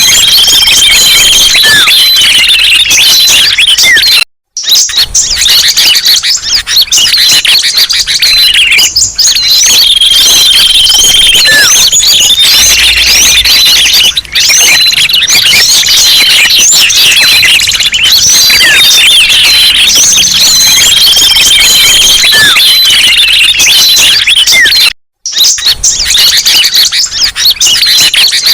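Bird-lure recording of a busy chorus of small songbirds chirping, twittering and trilling over one another, played very loud. The same passage repeats about every ten seconds, and the sound cuts out completely for a moment twice.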